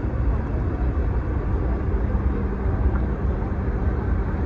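Heavy diesel truck engine running steadily at low revs, a dense low rumble with a steady engine note that comes in about a second and a half in.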